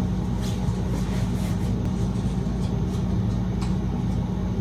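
A steady low hum, with faint soft rustles of a pillowcase being pulled onto a pillow.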